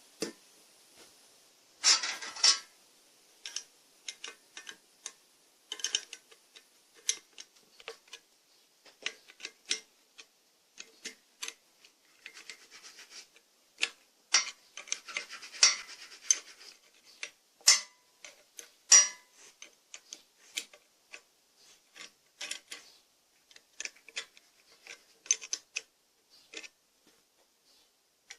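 Irregular clicks, taps and short scrapes of hands handling parts of the AD 180 washing-machine motor during disassembly, with no motor running.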